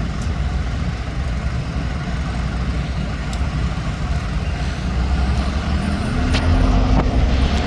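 Heavy vehicle engine running steadily, with a few sharp clicks; about six seconds in, a low hum rises slightly in pitch and then holds.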